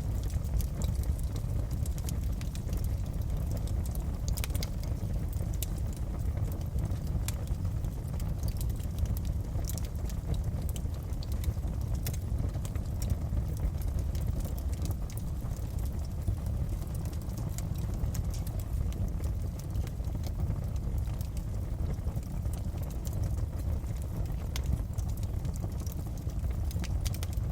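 Wood fire in a fireplace crackling: scattered, irregular sharp pops and snaps over a steady low rumble.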